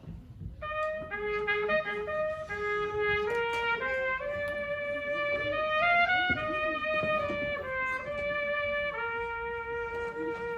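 Brass quartet music: a trumpet plays a lone melody line, moving note by note and settling on a held note near the end.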